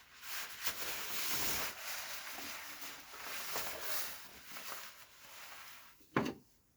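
Rustling and handling noises with a few light clicks and knocks.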